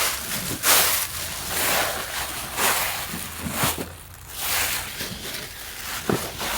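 Footsteps swishing through wet, muddy grass, about one a second.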